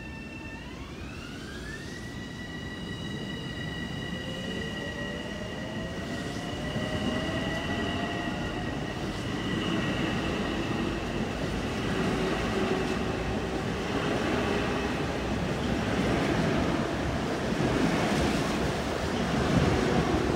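Long Island Rail Road electric multiple-unit commuter train pulling away from the station: its motor whine climbs in pitch over the first two seconds, a second, lower whine rises a few seconds later, and the rumble of wheels on rail grows steadily louder as the cars pick up speed.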